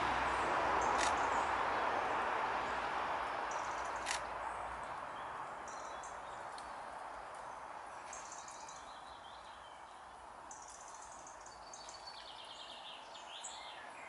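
Small woodland birds chirping and twittering in short high calls, busiest near the end, over a steady rushing noise that fades away during the first half. Two sharp clicks sound in the first few seconds.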